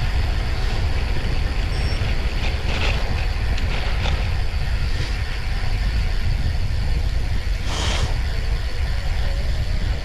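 Steady low rumble of a vehicle under way, with road and wind noise, and a brief rush of hiss about eight seconds in.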